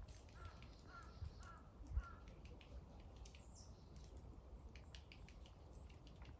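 Crows cawing faintly, four short caws in quick succession in the first two seconds, with a low thump about two seconds in.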